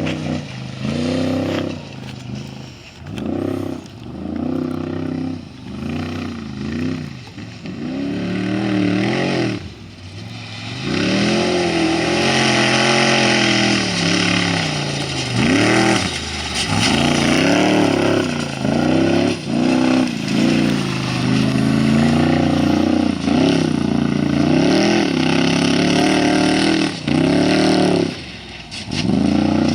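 Off-road race vehicle's engine revving hard in short bursts, its pitch rising and falling with each stab of the throttle about once a second. From about eleven seconds in it grows louder and runs more continuously, with brief lifts of the throttle and swoops in pitch.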